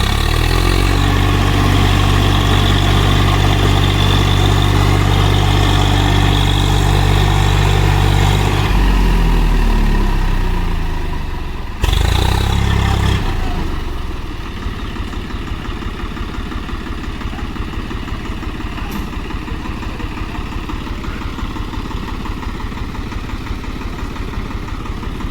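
Tractor diesel engine held at high revs, then the revs fall away about nine seconds in. After a brief burst of revving around twelve seconds it settles to a steady idle.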